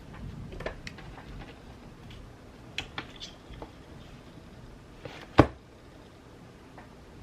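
Light taps and clicks of small objects being handled on a desk, with one sharp knock, by far the loudest sound, about five seconds in.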